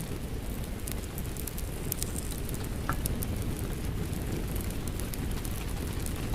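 Steady rain together with a crackling wood fire: a dense, even rumble of rain under scattered sharp crackles and pops from the fire, with one brighter pop about three seconds in.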